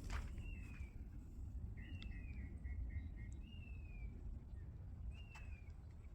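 A songbird calling: a few short whistled notes that slide downward, spaced a second or more apart, with a quick run of short notes about two seconds in. A low rumble of wind lies underneath.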